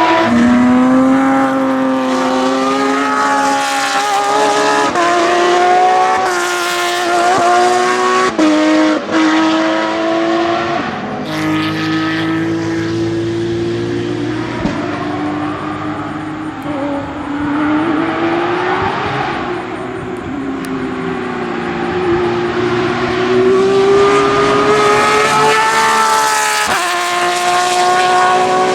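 Porsche 911 GT3-R race car's open-exhaust flat-six engine at high revs, its pitch climbing and dropping through repeated gear changes, swelling louder again near the end.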